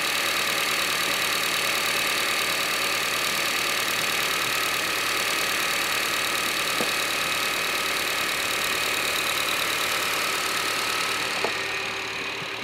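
Honda K24Z7 2.4-litre four-cylinder engine idling under an open hood, a steady whirring hiss with a faint ticking. It drops away somewhat near the end.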